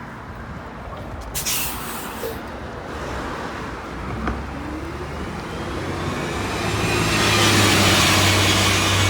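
Cummins Westport L9N engine and Allison B400R6 automatic of a NABI 45C transit bus, heard from inside the cabin, pulling away and accelerating. The engine note and transmission whine rise from about four seconds in and grow louder toward the end. A short hiss of air comes about a second and a half in.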